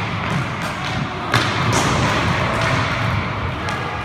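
Inline hockey play: a string of sharp knocks of sticks and puck against the floor and boards, the loudest about a third of the way in, over a steady low rumble of skates on the rink floor.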